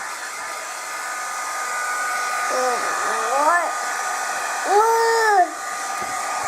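Handheld hair dryer running steadily, a blowing hiss with a thin whine. Twice, about midway and around five seconds in, a child's voice rises and falls over it.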